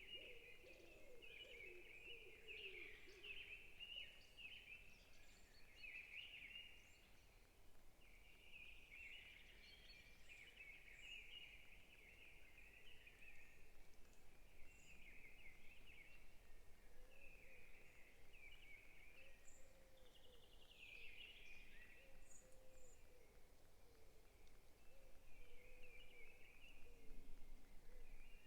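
Faint forest birdsong: several birds chirping and trilling almost without pause, with a lower call in the first few seconds and softer low calls again in the second half.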